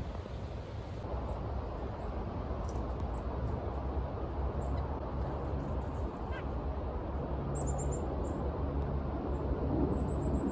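Faint, very high-pitched chirps of small birds in short quick runs, over a steady low rumble.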